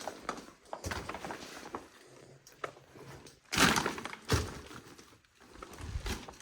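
Crunching and cracking of debris, with a loud crack and crash about three and a half seconds in and a second hit just after.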